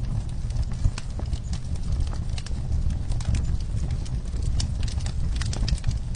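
Wood fire burning in a fireplace: a steady low rumble with many sharp crackles and pops at irregular moments.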